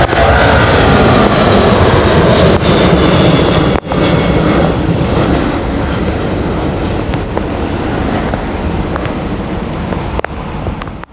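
Jet airliner engines roaring as the aircraft passes close, the roar easing off gradually over the last several seconds.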